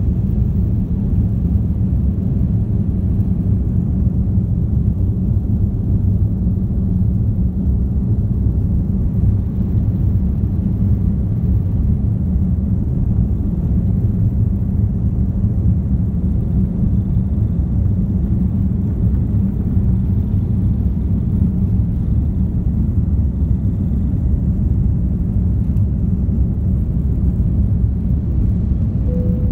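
Steady low rumble of a jet airliner's engines and airflow heard inside the passenger cabin in flight.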